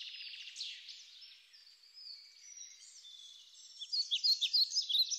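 Small birds chirping and twittering, a dense run of short high chirps that thins out and quietens in the middle and picks up again about four seconds in.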